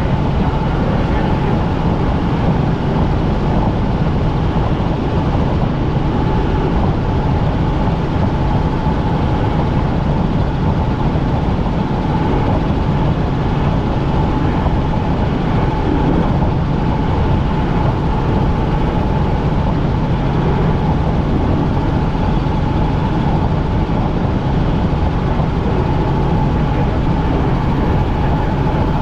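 Helicopter in flight, heard from inside the cabin: a loud, steady drone of rotor and engine noise with a constant whine above it.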